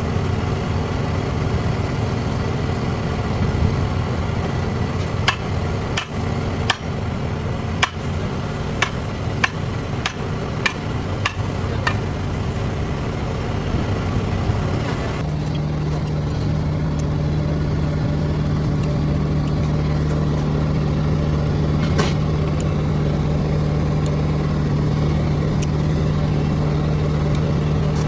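Engine running steadily, with a run of about a dozen sharp knocks a few seconds in. About halfway through, the engine note changes to a stronger, steadier hum that holds to the end.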